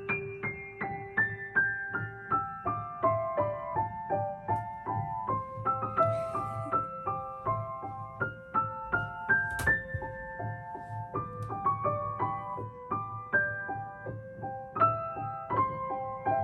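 Solo piano music: a melody of struck notes over a steady, evenly pulsing low accompaniment.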